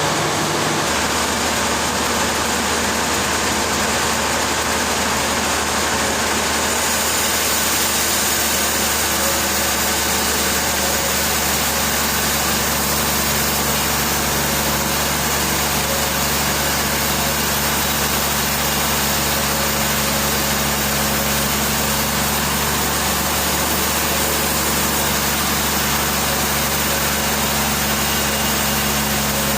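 Heavy machinery running steadily: a constant low engine-like hum under a wash of mechanical noise, the hum shifting slightly about a second in.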